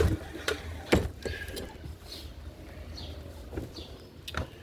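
A few sharp knocks and clicks from hands working on a walk-behind lawn mower: one at the start, another about a second in, and two more near the end.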